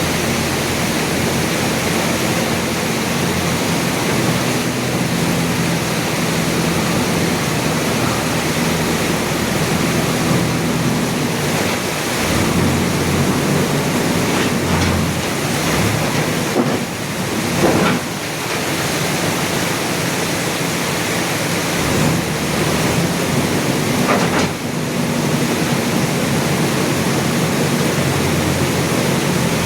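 A heavy machine's engine running under a loud, steady rushing noise, with a few short knocks partway through.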